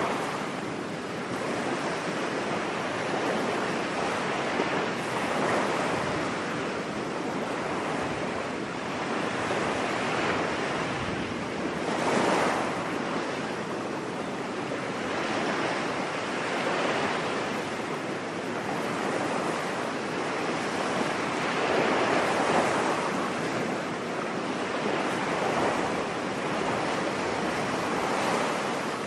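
Ocean waves washing onto a beach, a continuous surf hiss that swells and falls every few seconds, with one louder surge near the middle.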